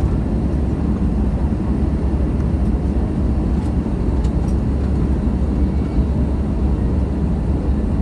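Airliner engine and airflow noise: a steady, unbroken low rumble with no change in pitch.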